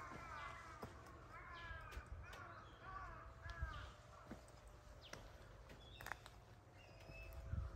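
Birds calling outdoors: a run of short, repeated arched calls, bunched in the first half and sparser later.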